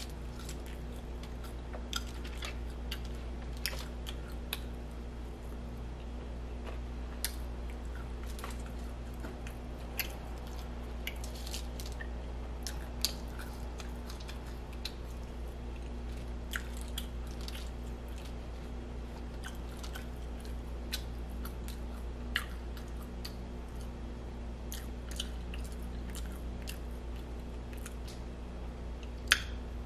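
Close-miked chewing of barbecued baby back ribs, with scattered sharp little clicks and smacks from the mouth, over a steady low hum.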